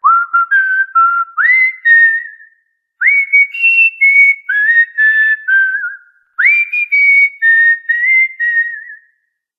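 A whistled tune of clear, pure notes in three short phrases. Each phrase opens with a quick upward swoop, then steps through several held notes.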